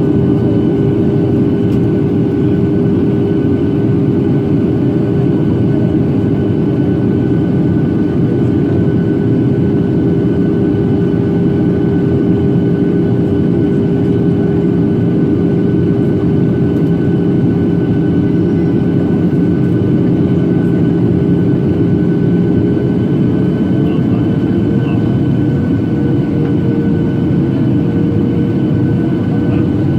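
Boeing 737-800 cabin noise in flight during the descent: a steady rush of airflow and CFM56-7B jet engines with a constant engine hum. About three-quarters of the way through, the hum rises slightly in pitch as the engines spool up a little.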